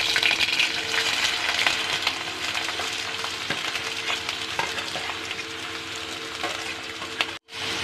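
Onion and green chillies frying in hot oil with mustard seeds in a kadai, sizzling while a spatula stirs, with small scraping clicks. The sizzle is strongest at first and eases off gradually over a steady hum, and the sound cuts out briefly near the end.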